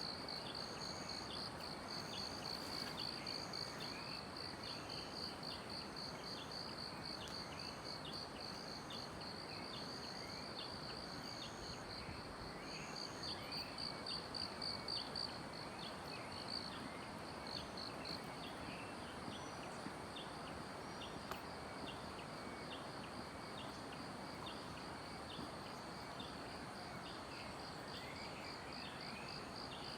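Forest insects calling without a break: a high, fast-pulsing trill that weakens about halfway through, and a higher note repeating roughly once a second that stops about two-thirds of the way in. Short chirps are scattered through it, over a steady hiss.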